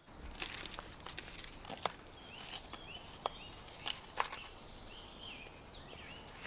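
Quiet outdoor ambience with small birds chirping now and then, and a few sharp knocks and taps from handling things nearby.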